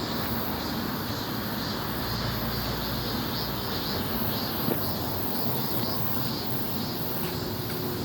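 Steady outdoor background noise, with a faint high chirr pulsing a little more than twice a second.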